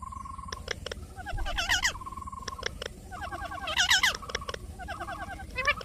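Parrot chirping and whistling: repeated warbling trills with a held whistle between them, and two louder calls sweeping upward, about two seconds in and again about four seconds in.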